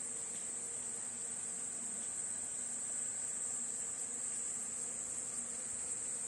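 Steady, high-pitched chorus of insects calling without a break.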